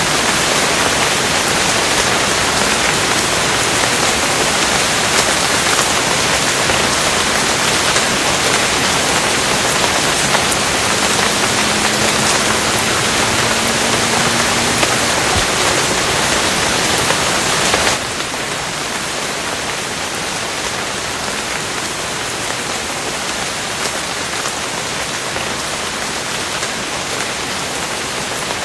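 Steady, dense rainfall, an even hiss of drops. About two-thirds of the way through it abruptly becomes a little quieter, as if the recording changes.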